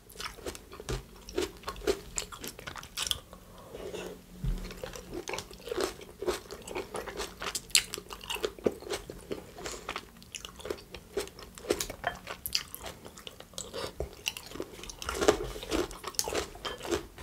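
Close-miked chewing of a mouthful of Greek salad, with irregular crisp crunches of lettuce and vegetables and soft wet mouth sounds.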